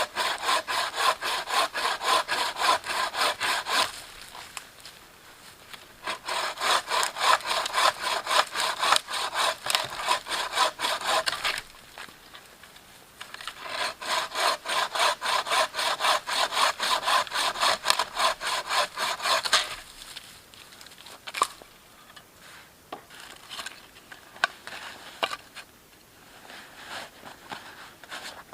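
Hand saw cutting through wood in fast, even back-and-forth strokes, about three to four a second, in three bouts with short pauses between. Near the end the sawing stops and a few scattered light knocks follow.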